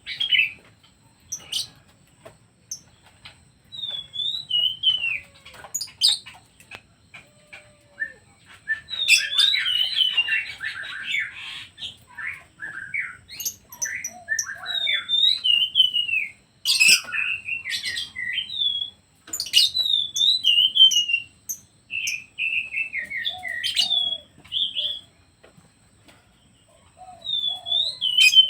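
Pet birds chirping and calling in short repeated notes, with bouts of quick twittering, the busiest about nine seconds in, and scattered sharp clicks.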